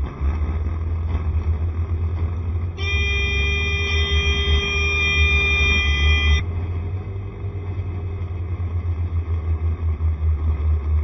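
Steady low rumble of wind and road noise from riding a Honda SCR110 scooter. About three seconds in, a vehicle horn sounds one steady held note for about three and a half seconds, then cuts off.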